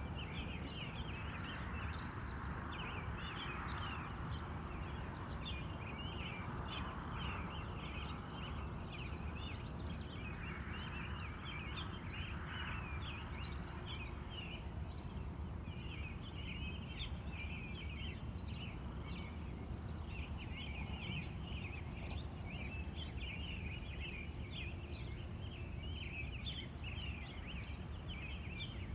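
Early-morning chorus of many wild birds, dense overlapping chirps and song throughout, over a continuous high-pitched insect trill.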